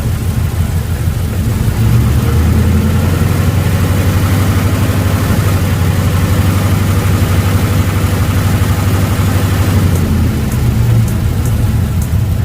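Ford 5.0 Coyote V8 engine of a 2012 F-150 revved up about two seconds in and held steady at raised speed for about eight seconds, then dropping back to idle. Faint sharp high ticks, about two a second, come in near the end.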